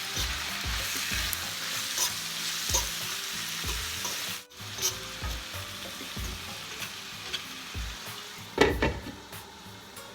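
Asparagus sizzling as it sautés in a frying pan, with a stirring sound; the sizzle is louder in the first half and drops after a brief break midway. A sharp clatter comes near the end.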